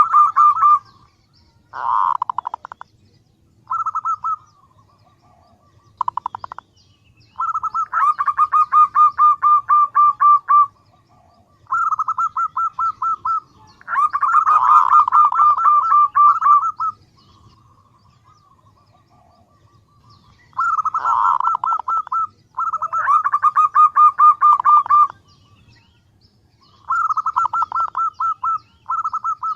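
Female zebra dove (perkutut) calling in rapid staccato trills. The trills come in repeated bursts of one to three seconds with short pauses between them. This is the female's call to draw males, used as a lure for catching them.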